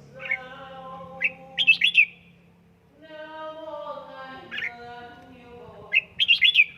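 Red-whiskered bulbul calling: sharp chirping notes in a quick cluster about a second and a half in and again near the end, with lower, drawn-out sounds that slide slowly down in pitch between them.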